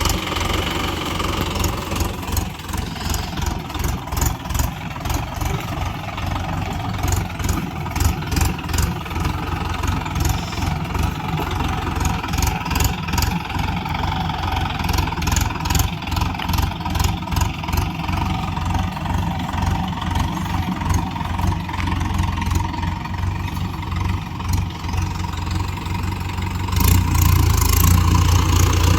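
Tractor diesel engine running under load with a steady, rhythmic beat, getting louder near the end as it is worked harder.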